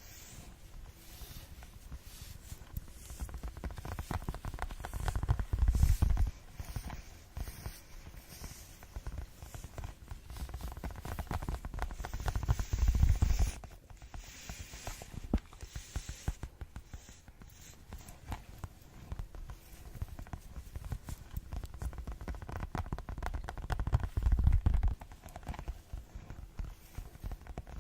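Fast ASMR tapping: a dense run of quick, light taps, with three louder stretches of deeper, heavier tapping about four seconds in, around twelve seconds in, and a few seconds before the end.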